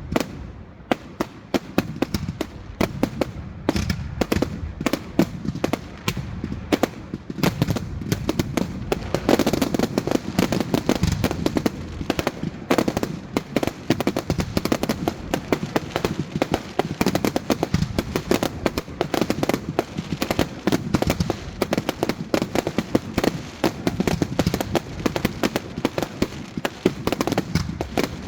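Fireworks going off in a rapid, continuous barrage of bangs and crackles, many reports a second, growing denser and louder about nine seconds in.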